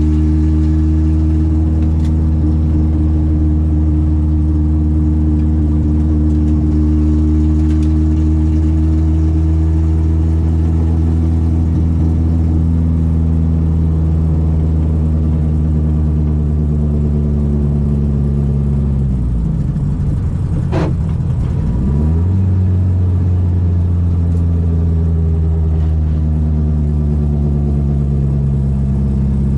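Citroen AX 8-valve engine on twin Weber 40 carburettors running hard under load, its note held steady and slowly sinking. About twenty seconds in the revs drop sharply with a click and climb straight back up.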